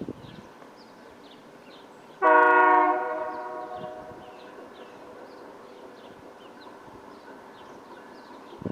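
One short blast of a diesel locomotive's chime horn about two seconds in, fading away over the next second. Small birds chirp throughout.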